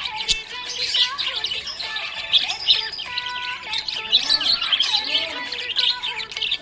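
Budgerigars chirping and warbling continuously, rapid overlapping chirps with no pauses.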